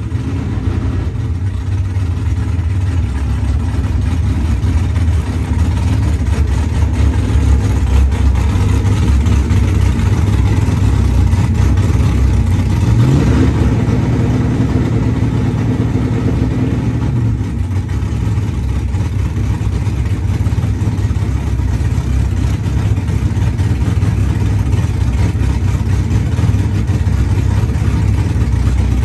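Chevrolet Camaro's engine idling loudly as the car creeps up to the drag strip starting line. Its pitch rises about halfway through, holds higher for a few seconds, then drops back to idle.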